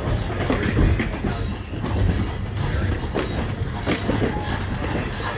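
Railway passenger coach riding the rails: a steady low rumble with irregular clanks and knocks from the wheels and the car.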